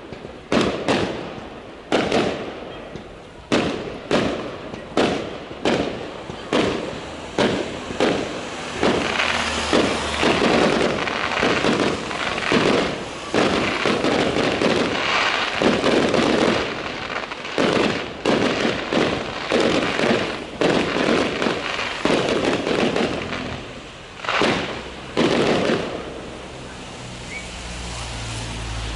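Fireworks display: a fast run of firework bursts, about one sharp bang a second, with a dense crackle filling the gaps through the middle. The bangs stop a few seconds before the end.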